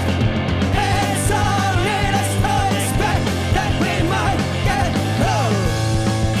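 Loud live rock band playing, with a held bass note, drums and a wavering sung vocal line over the top.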